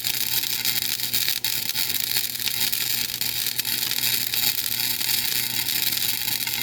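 Flux-core wire-feed (MIG) welder arc crackling and hissing steadily, with a faint low hum underneath, as a bead is run on thin, paint-covered steel tube.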